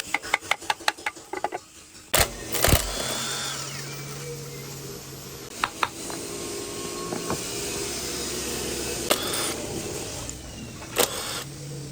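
Quick series of clicks, then a loud knock, then a small motor running steadily for several seconds.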